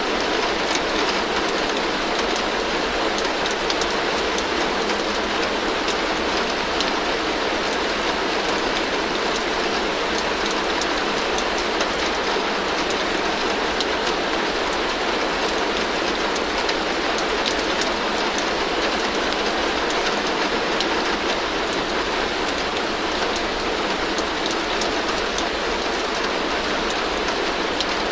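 Heavy rain drumming steadily on a tin (corrugated metal) roof, a dense, even hiss full of fine drop ticks, with water streaming off the roof edge.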